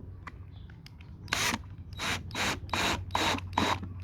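A wood screw being driven into thin scrap wood with a hand screwdriver: about six short rasping strokes, starting about a second in.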